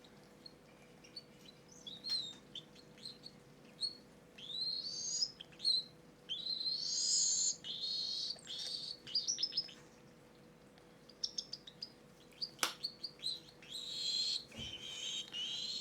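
Cockatiel chicks squeaking and chirping while being hand-fed, a food-begging feeding reaction: short chirps at first, then two bouts of longer squeaky calls that rise in pitch. One sharp click about three-quarters of the way through.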